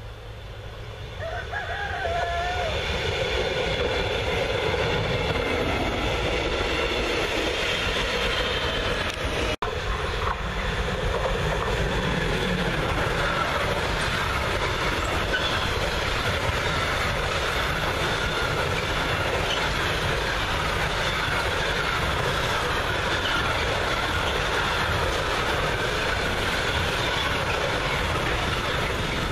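A double-deck regional train approaching and passing, then, after a cut about a third of the way in, a long container and trailer freight train rolling past close by: a steady rumble and clatter of wheels on the rails.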